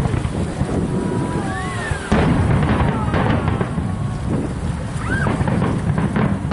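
Fireworks display: a continuous low rumble of bursts with sharp bangs and crackles, people's voices and wind on the microphone. It gets louder about two seconds in.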